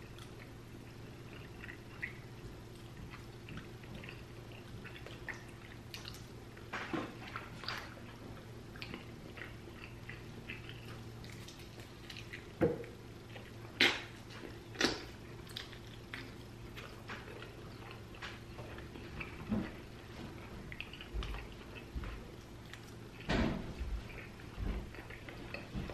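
A person chewing and eating food at close range, with scattered wet mouth smacks and clicks, a few sharper ones in the middle and near the end, over a steady low hum.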